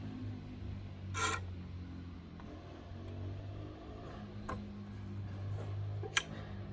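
Workbench handling sounds: a short scrape about a second in, then a couple of sharp clicks or taps near the end, over a low steady hum.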